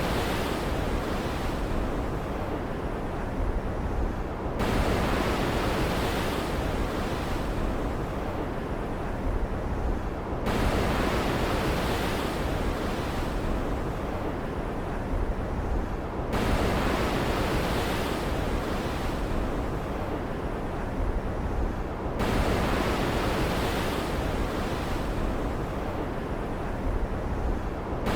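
Stormy-sea ambience: ocean surf over a steady wash of noise, with a wave surging in sharply about every six seconds and fading away.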